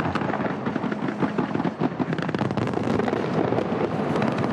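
Large fireworks display: a dense, unbroken barrage of shell bursts and crackling, many cracks a second.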